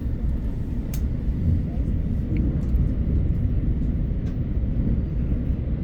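Train running: a steady low rumble with a few light clicks.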